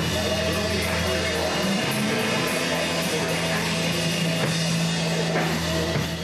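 Heavy rock music: a metal band with distorted guitar, bass and drums playing steadily, fading down at the end.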